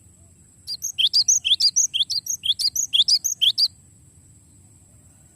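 Cinereous tit (gelatik batu) singing a fast rolling phrase: sharp notes that drop in pitch, repeated quickly for about three seconds and then stopping abruptly. A faint steady high-pitched whine runs underneath.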